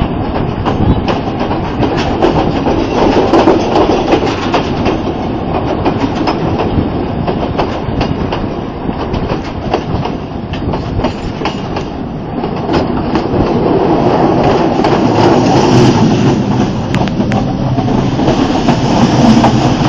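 Passenger train running on the rails: a steady loud rumble with the wheels clicking and clattering over the track throughout.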